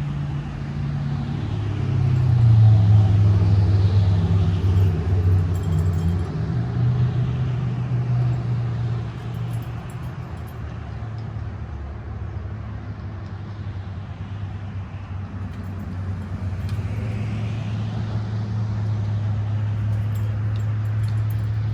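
A motor vehicle's engine running with a low, steady hum, which grows louder a couple of seconds in and then eases back.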